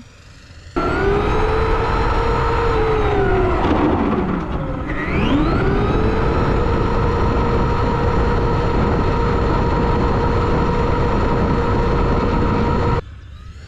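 Brushed electric motor and drivetrain of a Traxxas rally RC car whining at speed on a speed run. The whine drops in pitch and climbs back about four to five seconds in, then holds steady at a high pitch. It starts and stops abruptly.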